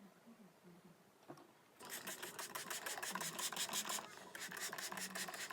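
A fast scratchy rasping, many strokes a second, starting about two seconds in, with a short break near the end.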